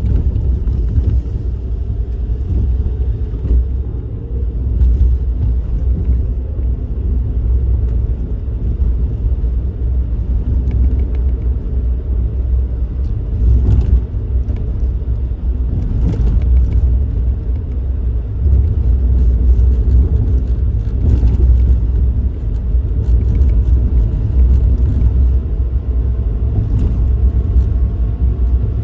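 Suzuki Kei Works kei car being driven: a steady low rumble of engine and road noise, with a faint whine that rises slowly in pitch at times and a few light clicks.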